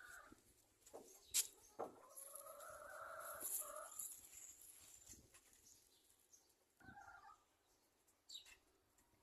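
Faint bird calls: one drawn-out call lasting about two seconds, then a short call near the end, with a few sharp clicks just before the first call.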